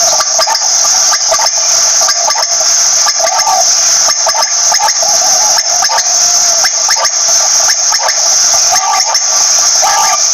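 Quail calling, short notes repeated every second or so over a steady, loud, high-pitched hiss.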